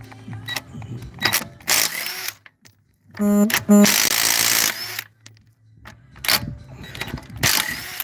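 Cordless impact wrench (rattle gun) on 17 mm bolts, running in several short bursts with pauses between. About three seconds in, the motor whines in two quick pulses and then hammers steadily for about a second.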